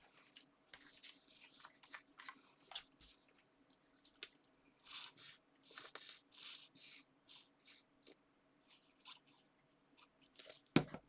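Paper and card being handled: rustling and crinkling in short irregular bursts with small clicks, and a single sharp thump near the end.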